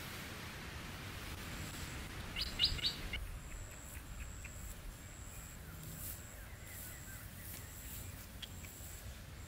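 Wild bird chirping: a quick run of three or four short high chirps about two and a half seconds in, over an even outdoor hiss. After that a faint high-pitched tone keeps repeating in short dashes.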